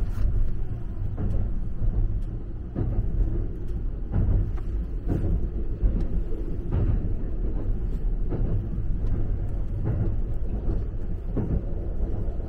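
Running noise of the Saphir Odoriko limited express heard inside the passenger car: a steady low rumble with scattered light knocks.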